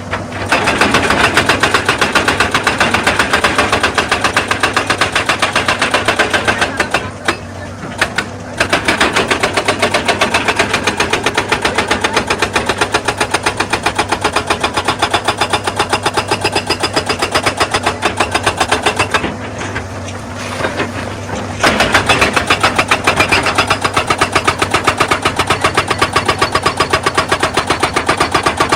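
Excavator-mounted hydraulic rock breaker hammering on stone in a rapid, even beat over the excavator's running diesel engine, stopping twice for a second or two while the engine keeps running.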